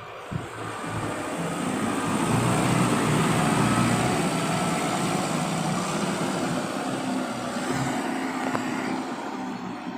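Kubota farm tractor's diesel engine running hard, growing louder over the first few seconds and then holding steady.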